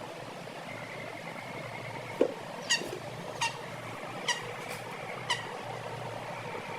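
Chickens giving short, sharp, high calls: four single calls about a second apart over a steady background, after a louder sharp sound about two seconds in.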